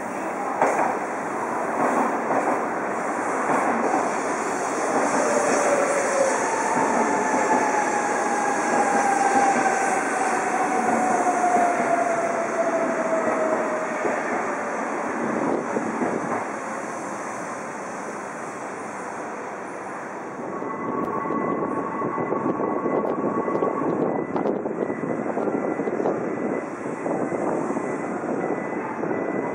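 E2 Series Shinkansen pulling slowly into a platform: wheels rumbling on the rails under a motor whine that falls in pitch as the train brakes. Near the end, the rumble builds again as another train approaches.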